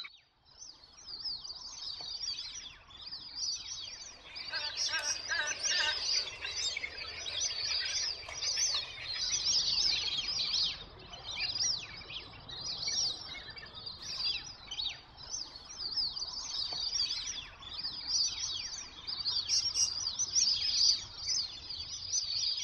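A flock of plumed whistling ducks calling, many high-pitched whistles overlapping in a continuous chorus.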